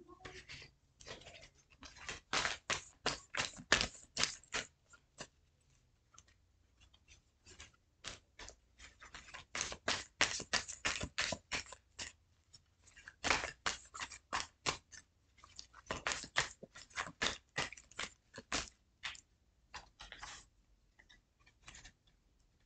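A tarot card deck being shuffled by hand: quick, crisp flicks of card stock in several bursts of a few seconds each, with short pauses between them.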